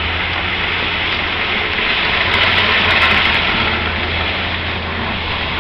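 Truck engine running steadily under a continuous rushing noise, as a chair is towed sliding along the ground behind it.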